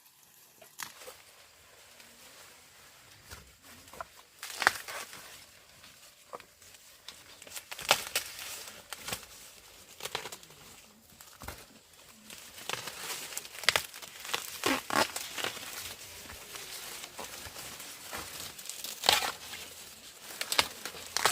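Dry corn plants rustling, with irregular sharp snaps and crackles as ears of corn are broken off the stalks and husks tear.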